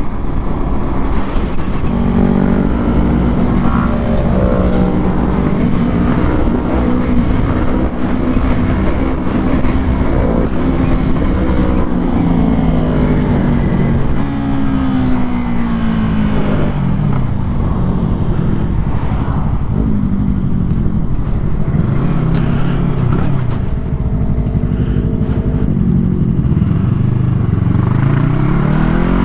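Sportbike engine running under way, its pitch climbing and dropping again and again as the bike speeds up and slows, over a steady rumble of road and wind noise.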